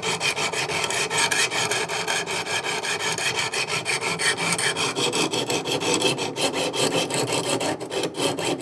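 Coarse 200-grit diamond sharpening stones of a Wicked Edge Go guided sharpener stroked over and over along an S35VN steel knife edge, a steady run of quick rasping passes. The stones are grinding the dull edge to raise a burr.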